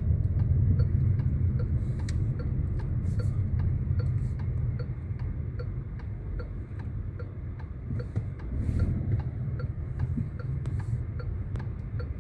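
Car's turn-signal indicator ticking steadily, about three clicks a second, over the low rumble of the engine and tyres heard inside the cabin.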